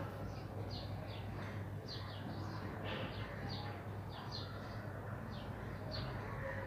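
Small birds chirping over and over in short, high, falling notes, a few a second, over a steady low hum.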